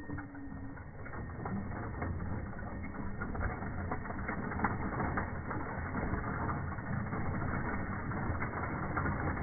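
Bicycle freewheel hub ticking in rapid, uneven clicks as the bike coasts, over a low steady hum.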